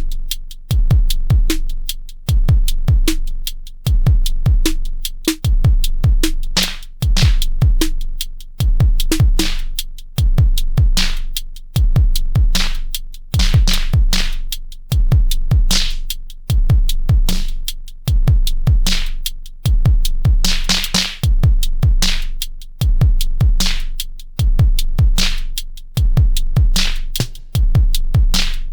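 Elektron Syntakt drum machine playing a repeating electronic drum loop: deep kick drums with a low bass tone, short hi-hat ticks and snappy snare hits. A longer noisy hit sounds about two-thirds of the way through.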